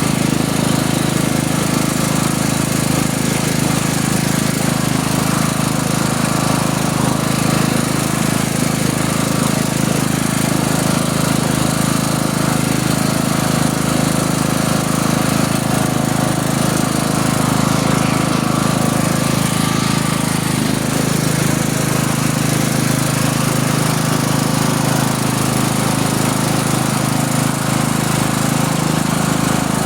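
An engine running steadily at a constant speed: a loud, even drone that holds its pitch throughout.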